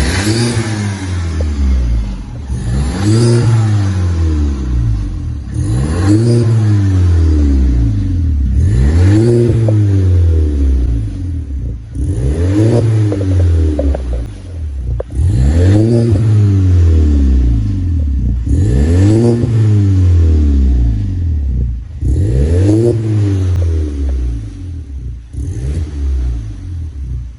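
Audi A3 2.0T's turbocharged four-cylinder revved repeatedly through a full aftermarket exhaust with Sirrush performance mufflers: about nine blips, each rising in pitch and falling back, roughly every three seconds, the last one smaller.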